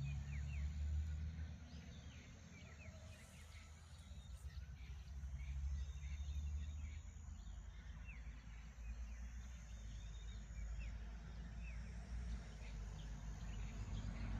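A morning chorus of small birds giving many short, rising chirps over a low, uneven rumble of wind and surf.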